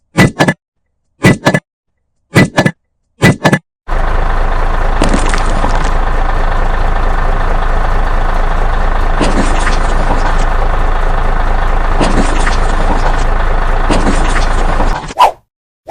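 Four short double knocks, then a steady engine-like running sound that starts abruptly about four seconds in and cuts off near the end.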